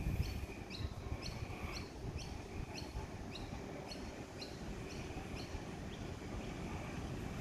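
A bird repeating short, high chirps two or three times a second, slowing and fading out about six seconds in, over the low rumble of a vintage Red Rattler electric train approaching in the distance.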